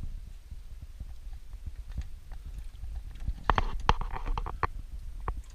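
Clicks and knocks from handling the old oil filter and tools under the car, bunched together from about three and a half seconds in, over a low rumble of handling noise on the microphone.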